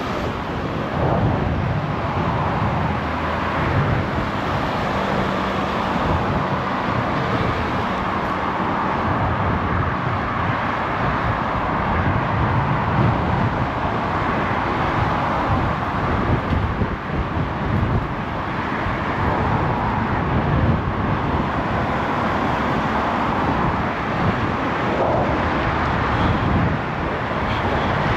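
Steady city street noise picked up by a bicycle-mounted action camera on the move: road traffic with cars passing, mixed with a fluctuating low rumble.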